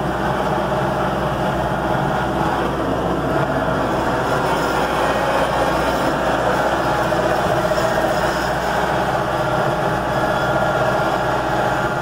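Tractor engine running steadily under way, a constant drone with no change in speed.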